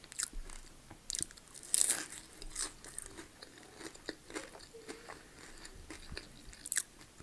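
Close-up chewing of crisp-skinned chunky fries: irregular crunches and bites, several in the first two seconds and a few more spaced out after.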